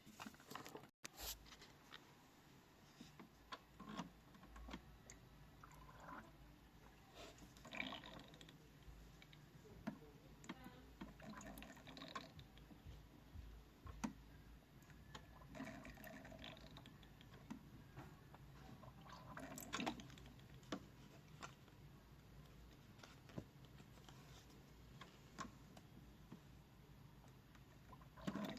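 Miele W1 toy washing machine on its 30° wash, giving faint, irregular trickling and sloshing water sounds with small clicks.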